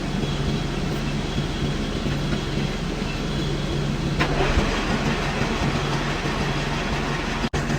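Metal lathe running with a steady hum, machining a steel pulley; about four seconds in a short sharp scrape, after which a rougher, hissing cutting noise grows stronger.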